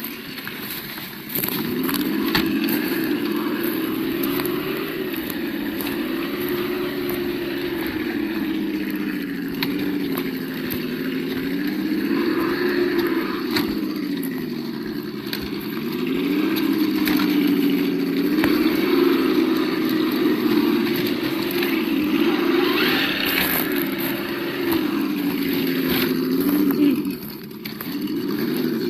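Engine-sound module of an Absima Yucatan 1:8 RC crawler playing a simulated engine note through its small speaker, the pitch rising and falling every few seconds with the throttle. The sound drops away briefly near the end.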